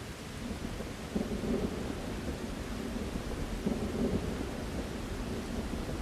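Low rolling thunder over steady rain. The thunder comes in about a second in and swells again about two-thirds of the way through.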